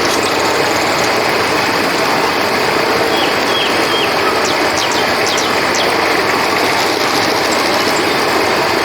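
River water flowing steadily, with crickets trilling high above it. A few short chirps come about three seconds in and again near the end.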